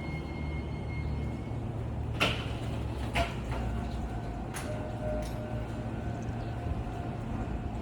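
Nishitetsu 3000-series electric train at the station: a steady low rumble, with three sharp clanks in the middle, then a faint steady whine.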